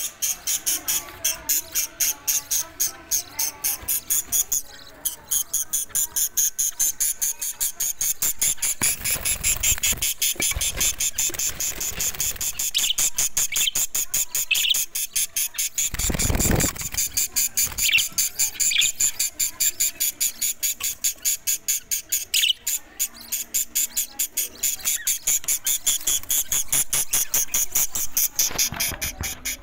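A colony of budgerigars chattering, a fast unbroken stream of high-pitched chirps. A dull thump comes about sixteen seconds in.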